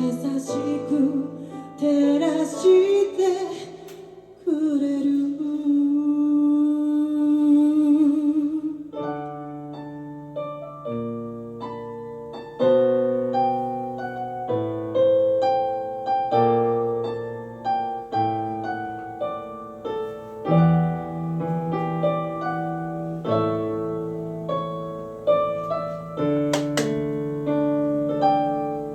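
A female singer holds a long final note with vibrato over piano chords. About nine seconds in the voice stops and the piano plays the closing outro alone in slow, ringing chords and notes.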